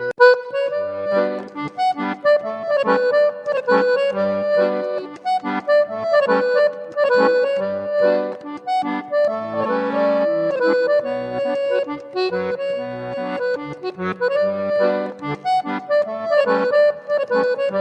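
Accordion playing a tune: a melody of changing notes over a regular, rhythmic bass accompaniment.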